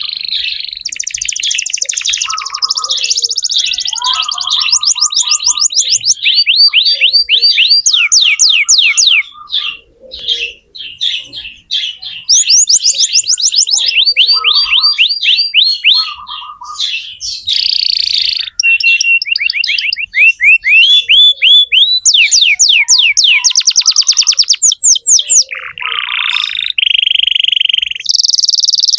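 Domestic canary in full song: a long, loud run of rapid trills, each made of quick falling notes repeated many times a second, with a short break about ten seconds in.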